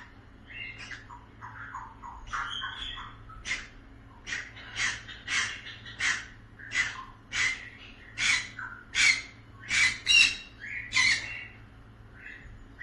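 A small pet bird squawking repeatedly in a rapid series of short, harsh calls, about two a second, growing louder through the second half.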